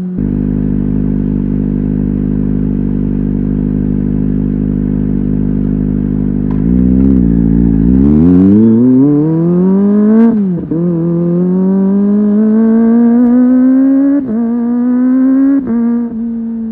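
Kawasaki ZX25R SE's 250 cc inline-four engine under way, with a steady note for the first six seconds or so. Its pitch then dips and climbs steeply to a high rev about ten seconds in, drops sharply at a gear change, and climbs steadily again with two brief dips near the end.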